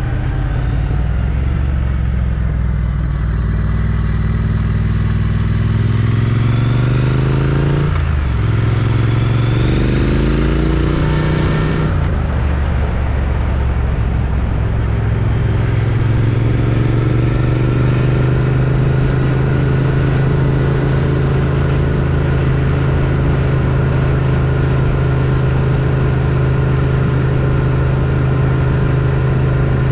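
Triumph Street Twin's 900 cc parallel-twin engine through its stock exhaust, heard from the rider's helmet: it pulls up through the revs, drops at a gear change about eight seconds in, climbs again and eases off about twelve seconds in, then settles into a steady cruise.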